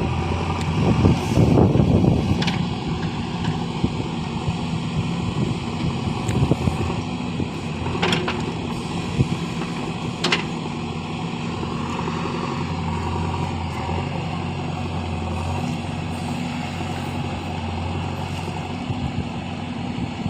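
Heavy diesel engine running steadily at a constant pitch, with a few sharp knocks.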